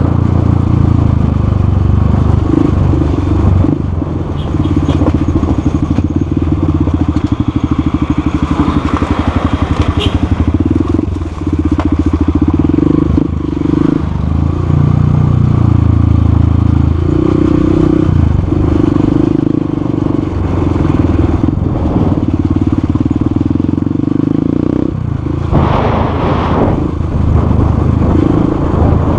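Motorcycle engine running on the move. Its note steps up and down several times through the stretch.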